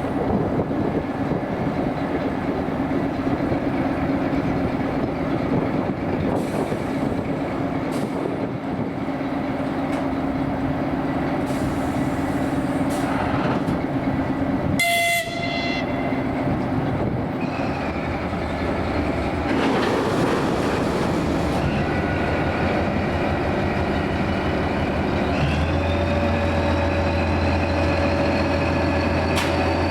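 A train running through the station with continuous rumbling rail noise and a steady hum. A brief horn blast sounds about halfway through. Near the end a steady low hum sets in, with a slowly rising whine.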